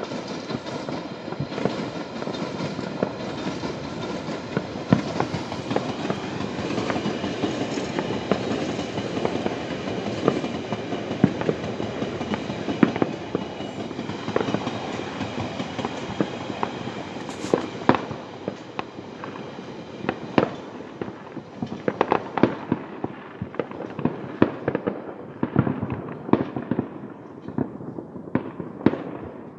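Many fireworks going off at once: a dense, continuous crackle of bangs that thins in the last third into separate bangs.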